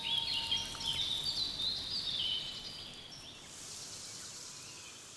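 Small birds chirping and twittering in quick high calls, busiest in the first half and fading, with a faint steady high hiss taking over about halfway through.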